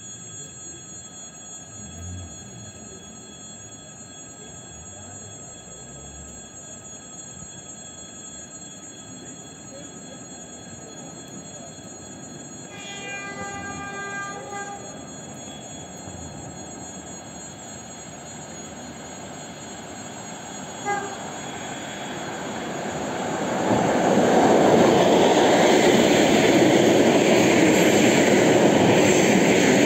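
Electric passenger train approaching the platform, sounding a horn blast of about two seconds about halfway through. It then grows into a loud rush and rumble as it arrives over the last several seconds.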